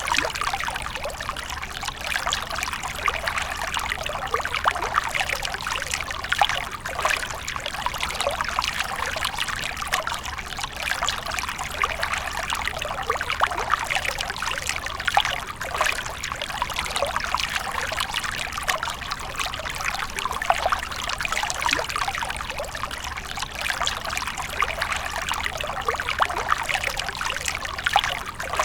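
Water from a small fountain splashing and trickling steadily, a continuous bright patter of falling water.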